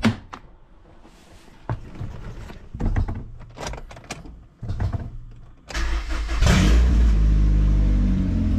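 A few clunks and knocks, then about six seconds in a Honda CR-V's four-cylinder engine cranks, catches and runs loud and steady with its exhaust pipe removed, open just past a short bend after the engine.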